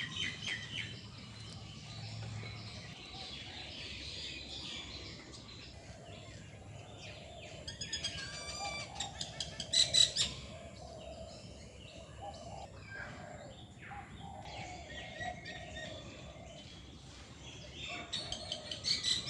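Many aviary birds chirping and calling together, with a loud run of rapid repeated calls about halfway through.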